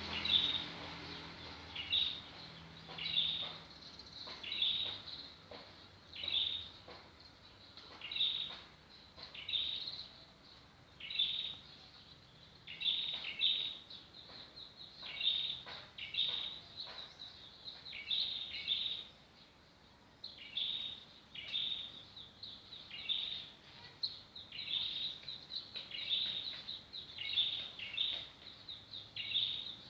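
High-pitched animal chirps, a short burst about every one to two seconds, going on steadily. A faint low hum fades out in the first few seconds.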